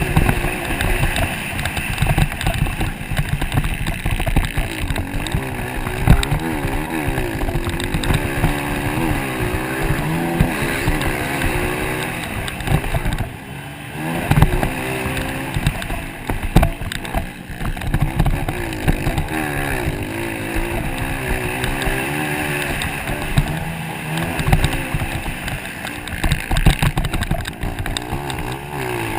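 Motocross motorcycle engine running on the track, its pitch rising and falling over and over as the throttle is opened and closed, over a rough low rumble. The sound drops briefly about thirteen seconds in.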